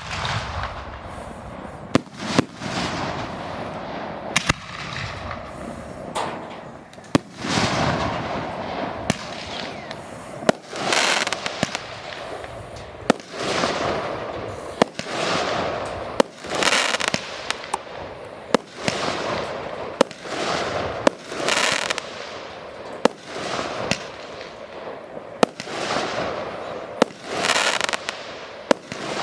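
Fireworks display: sharp bangs about every one to two seconds, each followed by a fading rush of noise lasting about a second.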